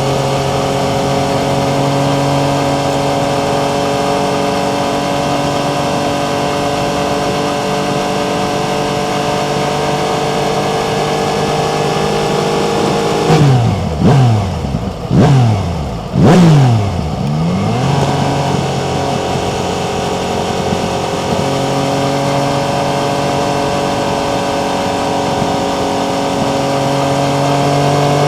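Yamaha MT-09's three-cylinder engine running at a steady road speed, its note creeping slowly upward. About halfway through, the pitch falls and climbs sharply several times within a few seconds, louder, as the gears are worked. It then settles back to a steady note and starts to fall again at the very end.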